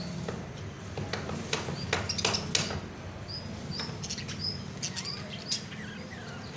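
Parrots giving short, high chirps, several in a row from about three seconds in, with a few sharp taps earlier and a low steady hum underneath.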